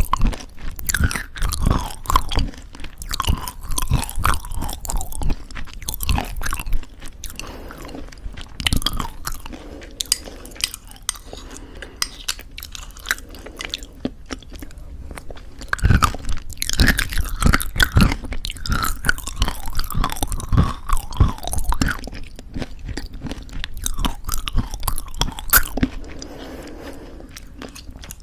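Close-miked crunchy chewing of granola in thick yogurt: rapid crisp crunches and bites, easing off for a few seconds in the middle, then loud crunching again.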